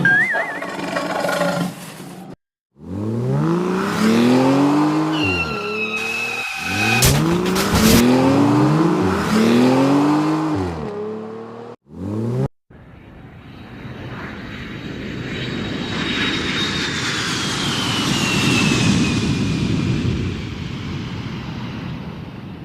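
Vehicle sound effects: an engine revving up and down over and over, then a long swelling whoosh of a vehicle passing, its whine sliding down in pitch.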